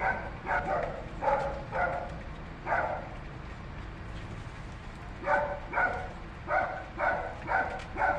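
An animal giving short, pitched barking calls: five in the first three seconds, then after a pause of about two seconds six more at about two a second.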